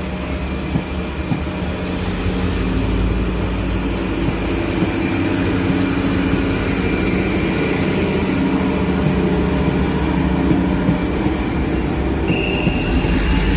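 Passenger train coaches rolling slowly past, a steady low rumble of wheels on track with a few sharp clicks over rail joints early on. The rumble grows a little louder toward the end as the rear diesel locomotive comes up, and a short high tone sounds about twelve seconds in.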